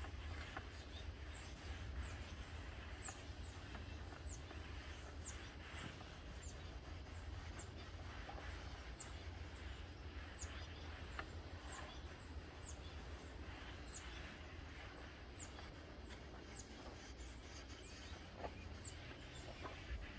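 Faint outdoor ambience: short, high, falling bird chirps repeating every second or so over a steady low hum.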